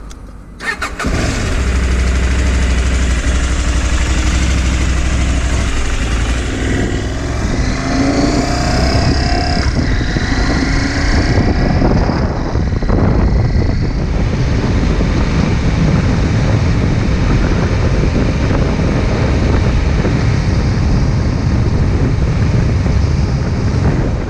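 Motorcycle engine starting about a second in, then running steadily and loudly, with pitch rising and falling for a few seconds in the middle as it is revved or ridden.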